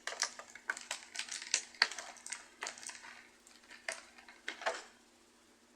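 A plastic action figure being handled: a quick, irregular run of small plastic clicks and rattles from its parts and joints, stopping about a second before the end.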